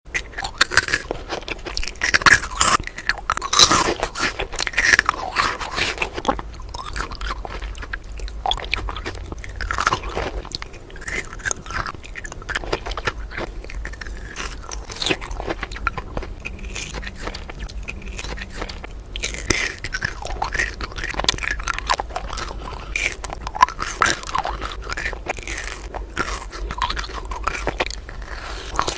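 Close-miked biting and crunchy chewing of sweets, with a dense run of sharp crunches. The crunches are loudest a few seconds in and continue as steadier chewing.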